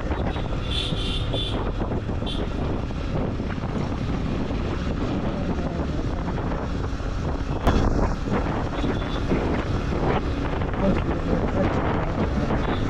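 Wind buffeting the microphone of a moving motorcycle, with engine and road noise underneath. A few short high beeps come about a second in, and there is a brief louder jolt midway.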